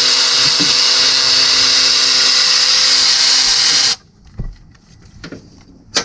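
Electric ratchet running steadily as it spins out a timing cover bolt, then cutting off abruptly about four seconds in. A few light clicks follow, with a sharper click near the end.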